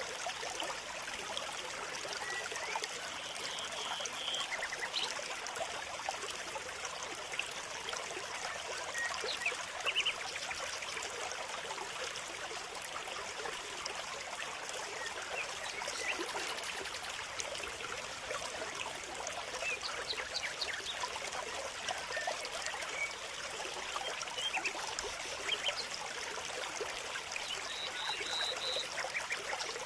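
Steady trickle of running water, with short high chirps of small birds now and then.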